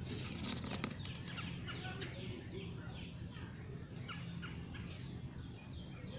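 Small bird tweeting in a quick series of short falling chirps, about three a second. A few sharp clicks come in the first second.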